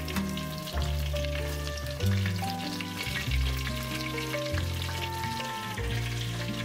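Food sizzling as it fries in a pan, a steady crackle throughout, under background music of held notes with a changing bass line.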